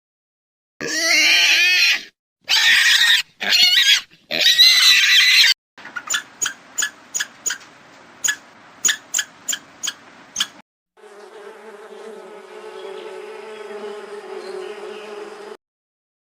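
A run of animal sounds: several loud squealing calls that bend in pitch, then a quick series of sharp clicks, then a steady buzz.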